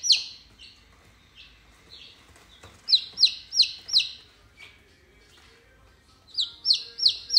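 Rose-ringed (ring-neck) parrot screeching: loud, sharp, downward-sliding calls about three a second, a run of four about three seconds in and another run starting near the end.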